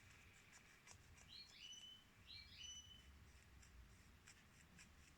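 Near silence with faint small clicks and ticks from a ballpoint pen's mechanism being worked by hand, and two short high chirps about a second apart in the middle.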